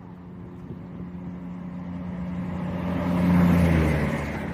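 CrossCountry Class 170 Turbostar diesel multiple unit passing through the station, its engine hum and wheel noise growing louder to a peak about three and a half seconds in, then the pitch dropping as it goes by.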